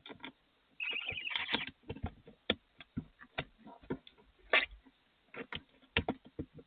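Barn owl chicks in a nest box: one short hissing begging call about a second in, then a run of irregular clicks and scratches from movement in the box.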